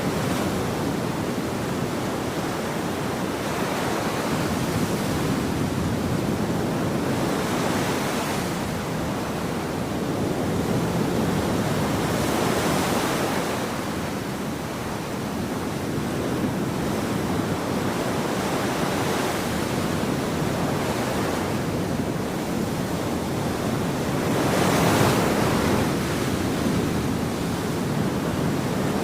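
Ocean surf on a beach: a continuous wash of waves, swelling and breaking every few seconds, with the largest wave about 25 seconds in.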